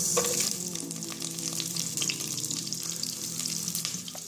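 Onion dropped into hot oil in a pot on high heat, sizzling. The sizzle starts suddenly and is strongest as the onion goes in, then settles into a steady frying hiss.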